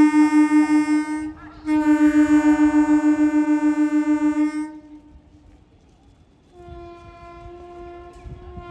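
Indian train's horn sounding two long, loud blasts with a fast wavering and a short break between them, stopping about five seconds in. After a short lull, a fainter, slightly higher horn starts up and holds to the end.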